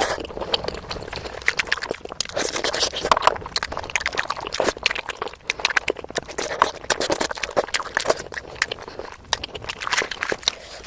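Close-miked eating: wet chewing of rice and curry, with many small mouth clicks and smacks.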